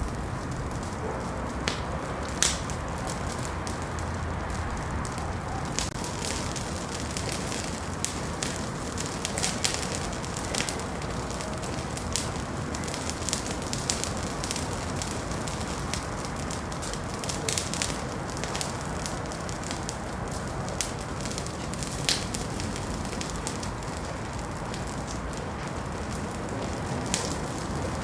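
Wood fire in a fireplace crackling, with frequent irregular sharp pops over a steady low rush of the flames.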